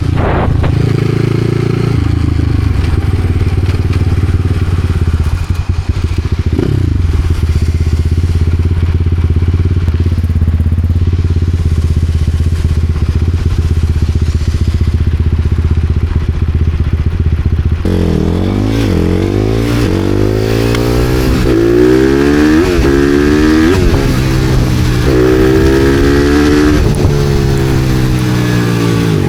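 Supermoto motorcycle engine running steadily at low revs, then, a little past halfway, accelerating through the gears: the pitch rises and drops again and again with each shift.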